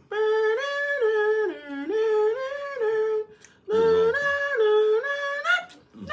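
A person humming a short tune in two phrases, the notes stepping up and down, with a brief break about three seconds in.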